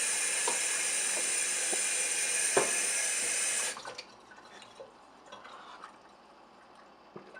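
Water running from a tap in a steady stream, shut off abruptly about halfway through, then faint drips. A sharp click sounds shortly before the water stops.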